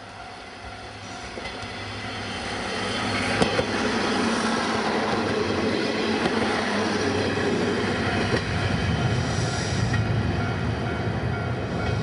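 A KiHa 58 diesel railcar's DMH17H eight-cylinder diesel engine running, growing steadily louder over the first few seconds and then holding loud, with the rumble of the train on the rails. A single sharp click sounds about three and a half seconds in.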